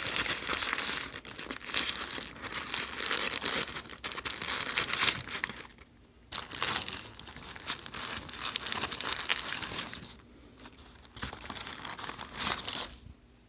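Paper wrapper of a fast-food chicken sandwich crinkling and tearing as it is unwrapped one-handed, in uneven bursts with a couple of short pauses.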